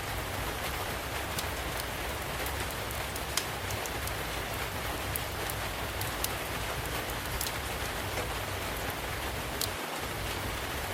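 Steady rain falling, with the sharp crackles and pops of a wood fire scattered through it, one louder pop about three and a half seconds in.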